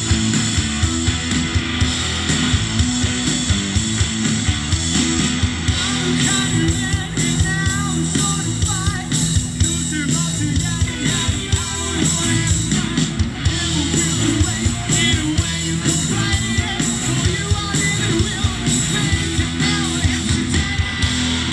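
Rock band playing live, loud electric guitars and drums with a steady beat, and a voice singing over them from about six seconds in.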